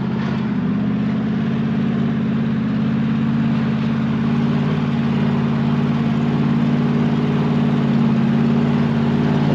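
Pickup truck engine running steadily under load as the truck crawls up a rocky off-road climb, growing slowly louder.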